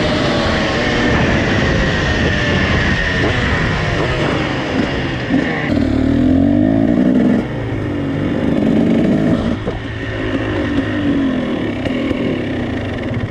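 KTM SX two-stroke supermoto engines running hard, the pitch rising and falling repeatedly as the throttle is opened and closed through the gears, with a sudden change in the sound about halfway through.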